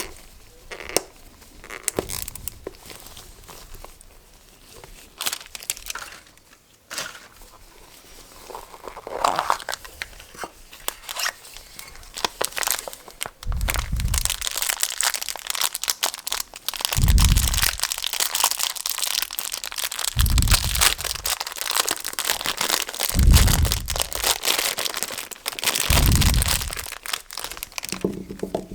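Plastic packaging of surprise eraser packs crinkling and tearing as it is handled and opened. It starts with scattered clicks and light crinkles, then from about halfway through turns into dense crackling, with a dull thump about every three seconds.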